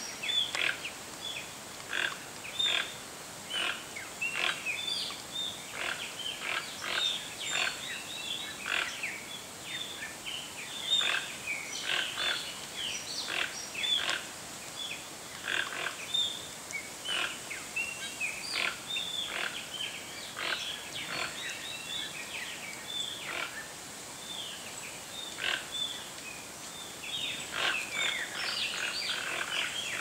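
Birds calling: a steady, irregular stream of short, harsh chirping notes, several a second.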